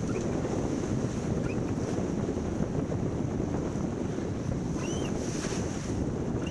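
Wind buffeting the microphone and water rushing past the hull of a sailboat under way, a steady rumbling noise, with a couple of faint short squeaks near the end.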